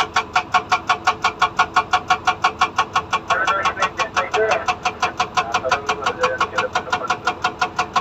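Hydraulic rock breaker (SAGA 288H on a Komatsu PC200 excavator) hammering hard rock in a rapid, steady train of about six blows a second.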